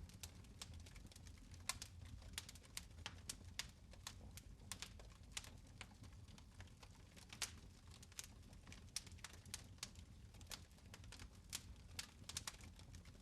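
Faint fire crackling in a fireplace: irregular small snaps and pops, several a second, over a low steady rumble.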